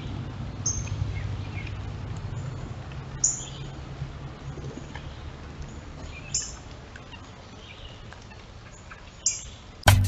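A wild bird gives short high chirps, four in all about three seconds apart, with fainter calls in between, over a steady low rumble. A banjo tune starts right at the end.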